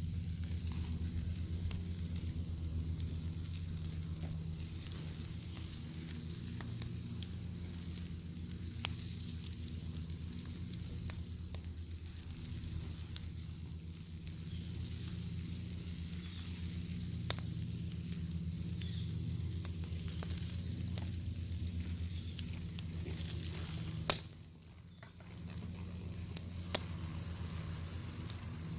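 Bacon sizzling over a crackling wood fire: a steady frying hiss over a low rumble, with scattered pops and crackles. One sharp, loud pop late on, after which the sound briefly dips before the sizzle returns.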